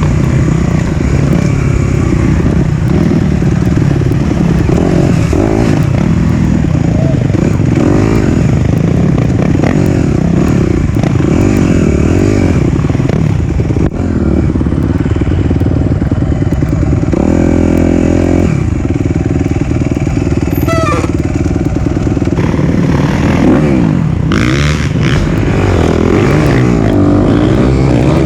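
Four-stroke single-cylinder dirt bike engine revving up and down over and over under throttle, with a short stretch of steady revs about two-thirds of the way through.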